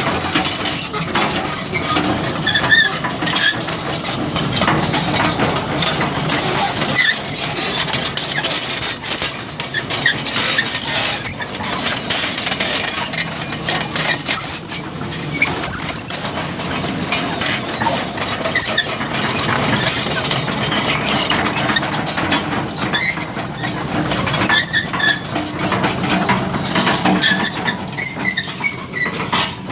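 Excavator at work: its engine runs steadily under many metallic clanks and knocks, with short high squeals now and then.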